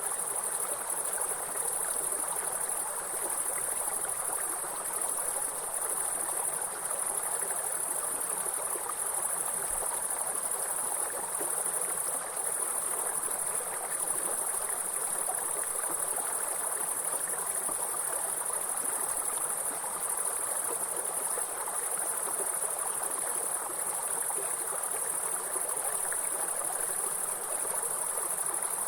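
A steady high-pitched chorus of insects, which the uploader calls grasshoppers, over the even rush of running water from a stream or small waterfall.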